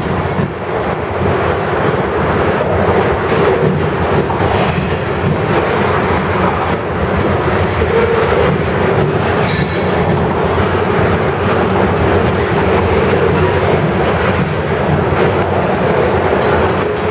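Freight train of covered hopper cars rolling steadily past close by: a continuous loud rumble of steel wheels on rail with clickety-clack over the rail joints.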